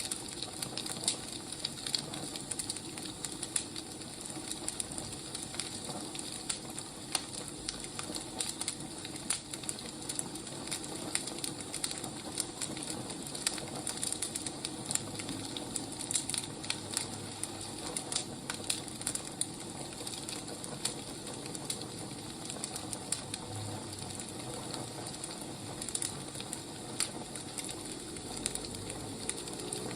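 Burning firewood crackling: a steady hiss with frequent small, irregular pops and snaps.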